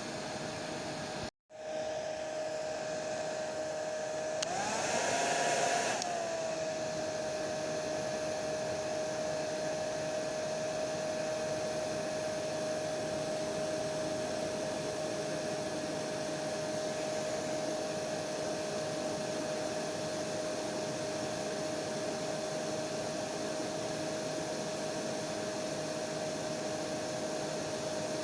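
Hair dryer running steadily, a rushing blow with a steady motor whine. It cuts out for an instant about a second and a half in. Around five seconds in it briefly gets louder and the whine rises before settling back.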